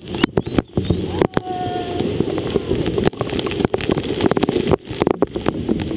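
Waterfall's falling water rushing loudly, with dense crackling and brief dropouts from water and wind striking the microphone.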